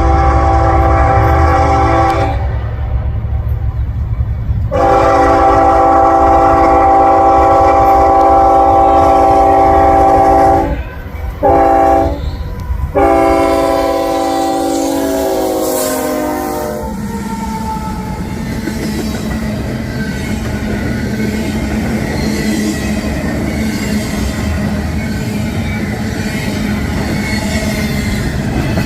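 Freight locomotive's multi-chime air horn sounding the grade-crossing pattern: long, long, short, long. The last blast drops in pitch as the locomotive passes. Then the steady rumble and clatter of the stack train's cars rolling by.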